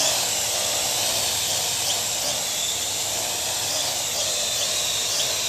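Parrot quadcopter drone in flight, its electric rotors giving a steady high whine with a hiss, the pitch wavering slightly as it manoeuvres.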